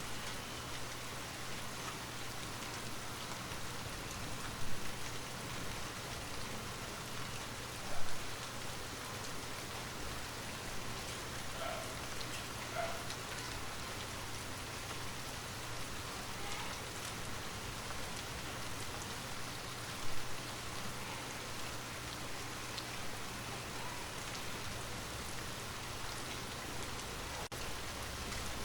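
Steady rain falling on a surface, an even hiss with pattering drops and a low steady hum beneath it. Three brief, louder taps stand out about 5, 8 and 20 seconds in.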